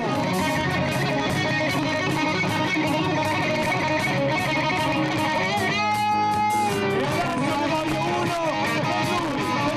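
Live band playing with the electric guitar to the fore, its notes bending in pitch, and a long held note about six seconds in.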